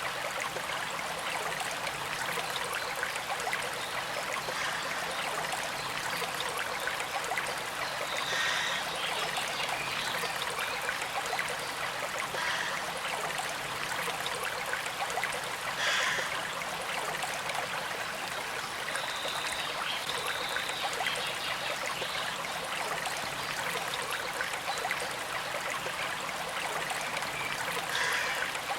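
A small creek flowing steadily, with a gentle trickle of water and a few brief brighter splashes.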